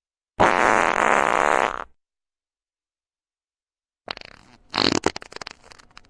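Two separate comedic sound effects, each starting after a gap of silence: first a loud buzzing blast lasting about a second and a half, then, about four seconds in, a spluttering, crackling one that tails off.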